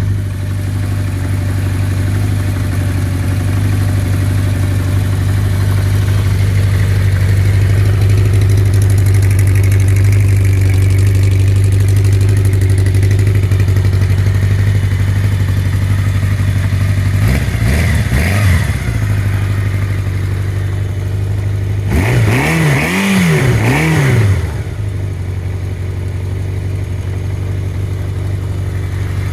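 Suzuki GT750's water-cooled three-cylinder two-stroke engine idling steadily. It is revved briefly a little past halfway, then again a few seconds later with several quick throttle blips, before settling back to idle.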